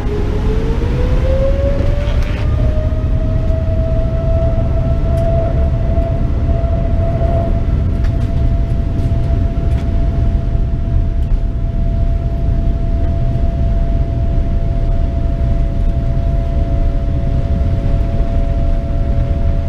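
Boeing 787-10's jet engines spooling up to takeoff power, heard from inside the cabin: a whine that rises in pitch and levels off after about two seconds into a steady high tone, over a loud, constant rumble of the takeoff roll.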